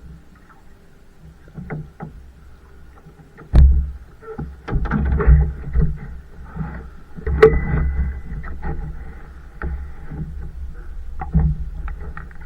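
Kayak on the water: irregular paddle splashes and water sloshing, with sharp knocks, starting about three and a half seconds in after a quieter start.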